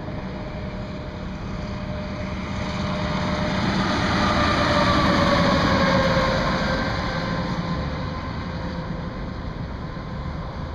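A vehicle passing on the highway: its noise swells to a peak about five seconds in and then fades, with a whine that drops in pitch as it goes by.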